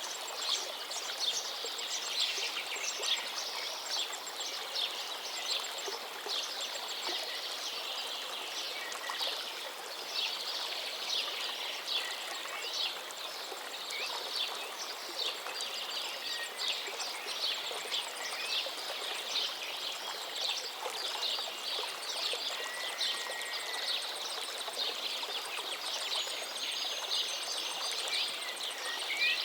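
River water running, with many birds chirping rapidly over it and a few short whistled calls.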